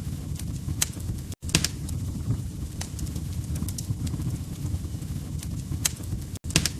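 Wood fire crackling in a fireplace: a steady low rumble of flames with sharp, irregular pops and snaps, a few of them loud. The sound cuts out for an instant twice.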